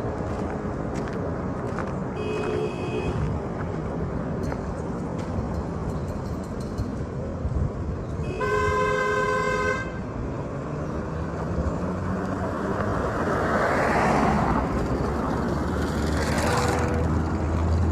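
Road traffic with two car-horn toots, a short one about two seconds in and a longer one about eight seconds in, then vehicles passing close by twice near the end.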